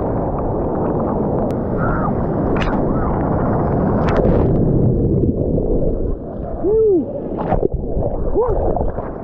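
Ocean surf churning and sloshing around a waterproof action camera's microphone, with gurgling as the water washes over it.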